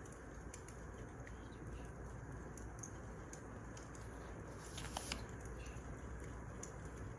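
Wood fire crackling: a steady low rush with scattered small pops and snaps, and a louder cluster of pops about five seconds in.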